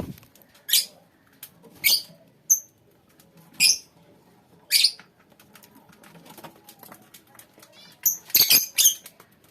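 Lovebirds giving short, shrill calls about once a second, with a quick run of several calls near the end, over faint chatter from the flock.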